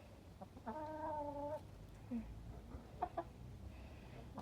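A chicken giving one drawn-out call of just under a second, followed about three seconds in by a couple of short clucks.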